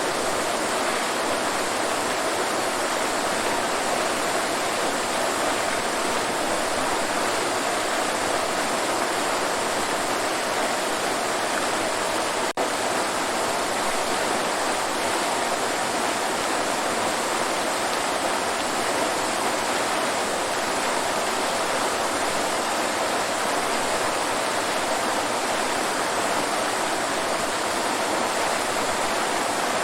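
Waterfall: a steady, even rush of falling water, with a split-second dropout about twelve seconds in.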